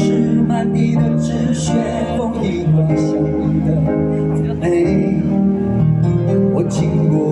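Live band music led by guitar: the instrumental opening of a Mandarin pop-rock song.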